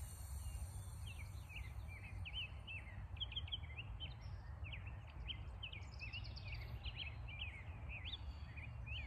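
Small birds chirping, many short quick notes scattered throughout, over a low steady outdoor rumble.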